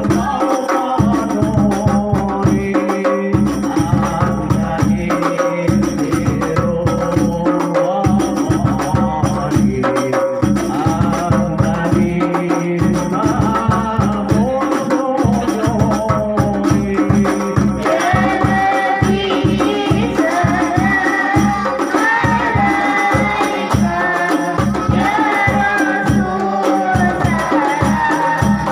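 Devotional Arabic sholawat singing over quick, rhythmic hand-drum beats. The voices move higher about two-thirds of the way through.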